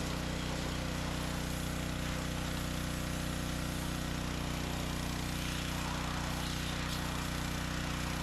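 A steady low mechanical hum with several pitches layered together, holding even throughout.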